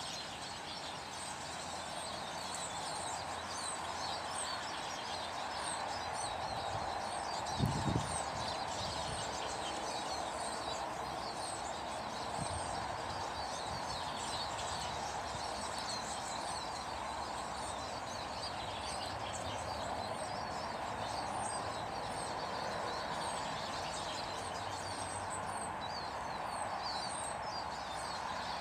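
Many small birds chirping and calling with quick, short notes over steady background noise, with a brief low thump about eight seconds in.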